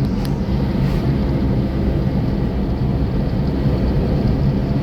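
Steady engine and road noise of a car driving along.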